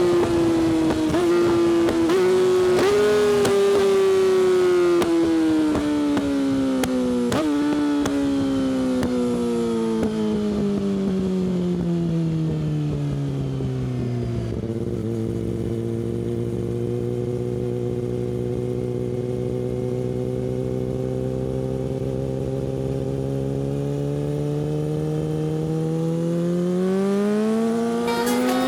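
Yamaha R6 inline-four engine through an Akrapovic exhaust, revs falling steadily for about fourteen seconds with a few brief jumps in pitch. It then holds low and steady, and rises again near the end as the bike accelerates.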